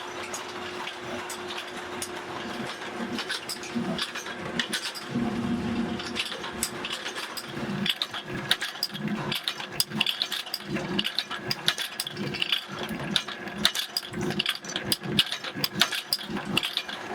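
Workshop machinery running with a steady hum, under many irregular sharp clicks and metal knocks that come thicker and louder in the second half.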